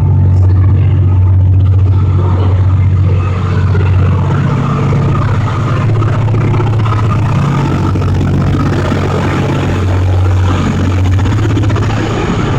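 Locomotive-hauled Cassiopeia sleeper train pulling out of the station, a heavy steady rumble with a strong low hum that swells and eases every few seconds.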